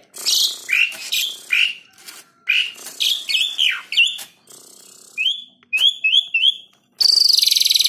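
Asian pied starling (jalak suren) singing: a string of short whistled notes that slide in pitch, including three alike in quick succession, then a loud harsh rasping call near the end.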